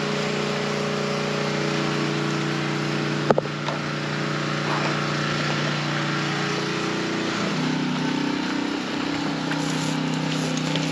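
A small engine or motor running steadily under a constant hiss. Its hum steps up to a higher tone about seven and a half seconds in. A single sharp knock sounds a little after three seconds.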